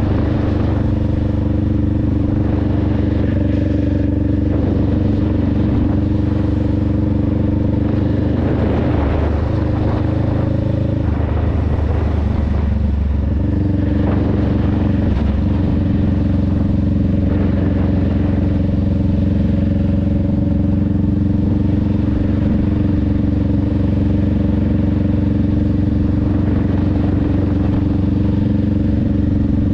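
2021 Honda Rebel 500's parallel-twin engine and exhaust running steadily under way. About nine seconds in the engine note breaks up and changes for a few seconds, then settles into a steady note again.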